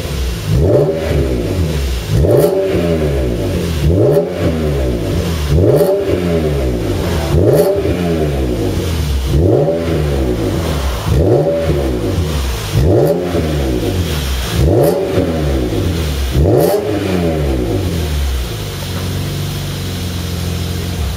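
Car exhaust through a Gulfstream aftermarket muffler: the engine is blipped about ten times, each rev rising and falling back, roughly every two seconds, then settles to a steady idle near the end.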